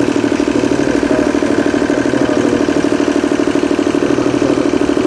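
Diesel engine of a Genie scissor lift idling steadily with a fast, even pulsing beat, running again just after new injection pump plungers were fitted.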